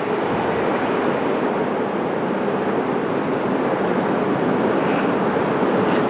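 Jet airliner engines on a landing approach: a steady roar with a faint humming tone and, about four seconds in, a thin high whine.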